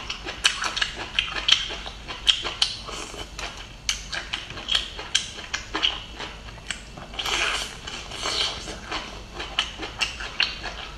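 Close-up chewing of crunchy bamboo shoot: a steady run of irregular crisp clicks and crackles, several a second, with wet mouth sounds between them.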